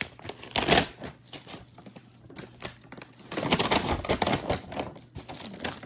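Crinkling and rustling of a gift bag and product packaging as small items are handled, in irregular bursts, loudest just under a second in and again through the middle stretch.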